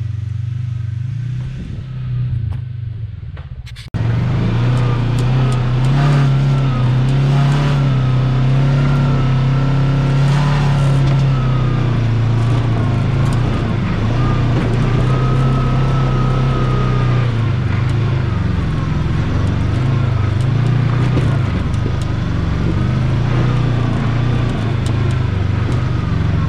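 Side-by-side UTV engine running steadily under load on a rocky climb, with a wavering whine above it. A few knocks and clatters come between about six and eleven seconds in. The sound jumps abruptly louder about four seconds in.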